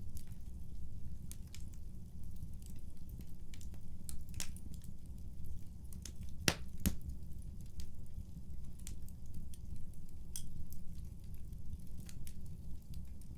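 Wood fire burning in a fireplace: a steady low rumble of flame with scattered sharp crackles and pops, two louder pops close together about halfway through.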